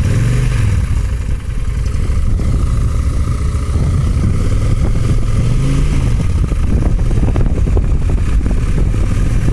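Motorcycle engine running in first gear as a beginner lets out the clutch and works the throttle. Its pitch rises and falls back twice.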